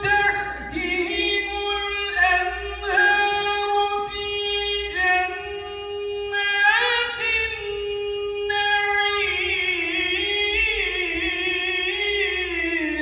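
A man's unaccompanied voice chanting Quran recitation in the melodic tajwid style, holding long ornamented notes in a high register, phrase after phrase.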